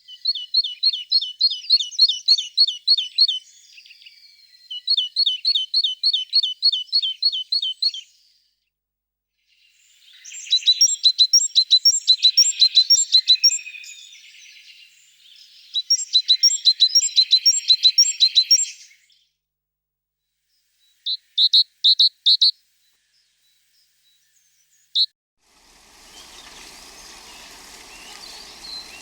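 A small bird singing phrases of rapid repeated high notes, several a second, each phrase lasting about three seconds with short pauses between. A few short loud notes follow near the end, then the song gives way to a steady outdoor hiss.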